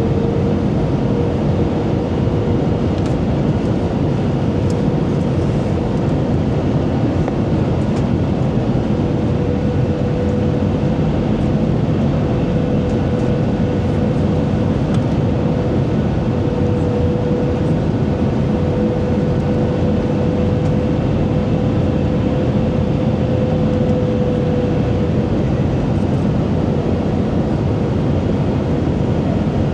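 Cabin noise of an Airbus A320 airliner in flight: the engines and airflow make a steady, loud rumble, with a steady mid-pitched hum over it.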